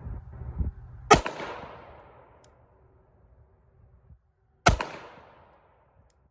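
Two 9mm shots from a Glock 19 pistol, about three and a half seconds apart, each followed by a long fading echo.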